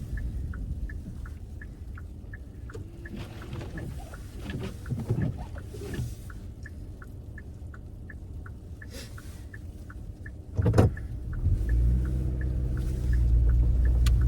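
Car cabin with low road and engine rumble and the turn-signal indicator ticking steadily, about three ticks a second, during a lane change onto a highway. A sudden thump comes about eleven seconds in, after which the low rumble grows louder.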